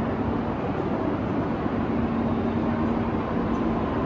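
E4 series Max double-decker Shinkansen train giving a steady hum and rumble, with a few steady tones running through it.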